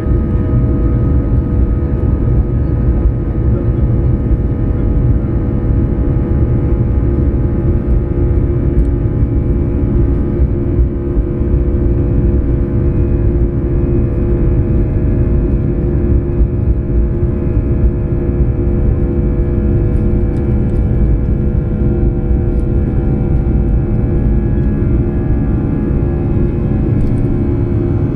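Boeing 737-800's CFM56-7B turbofan engines at takeoff power, heard from inside the cabin: a loud steady rumble with several steady whining tones over it.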